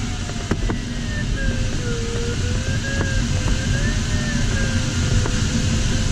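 LS4 sailplane cockpit airflow noise with a variometer's continuous tone wavering and sliding lower in pitch, the audio vario signalling a weakening climb. A few faint clicks are heard now and then.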